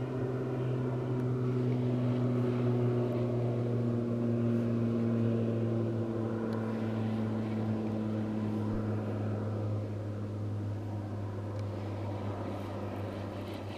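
A motor drones steadily and slowly falls in pitch, the sound of an engine passing at a distance.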